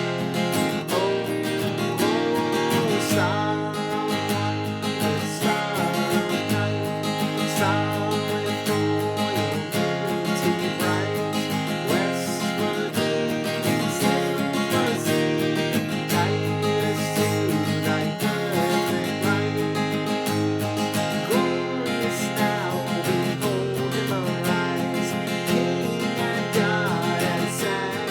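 Seagull S6 mahogany acoustic guitar being strummed and picked, playing a continuous melody with chords.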